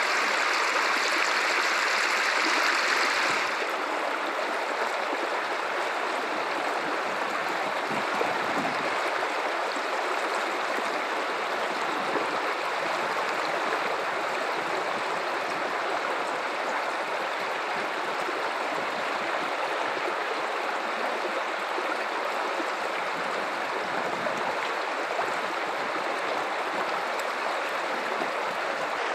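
River water running steadily, a little louder and brighter for the first few seconds before settling to an even flow.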